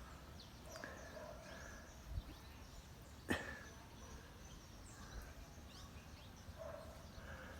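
Faint outdoor ambience with scattered bird calls and chirps, and a single sharp click about three seconds in.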